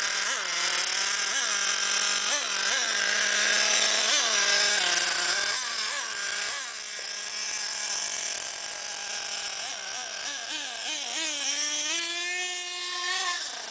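Madstorm 1/8-scale RC car's .21 nitro engine revving in repeated short throttle blips, its pitch rising and falling. It then holds high revs for about two seconds and cuts off abruptly near the end.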